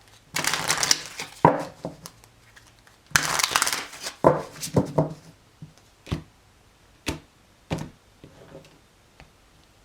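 A deck of tarot cards being shuffled in two rustling bursts, followed by several short sharp card taps about a second apart as a card is drawn.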